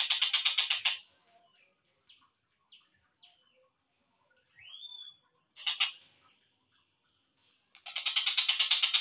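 Tengkek buto kingfisher calling: a fast, harsh chattering rattle that stops about a second in, then a few short scattered notes and one rising then falling call, before the rapid chatter starts again near the end.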